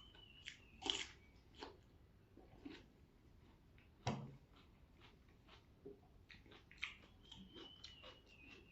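Eating sounds: crunching bites and chewing of vegetables and rice, faint, with the loudest crunch about four seconds in and a run of quick, small wet clicks of chewing near the end.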